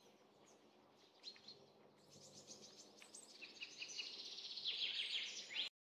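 Birds chirping: many short, high calls that grow busier and louder over a faint steady background hum, then cut off abruptly near the end.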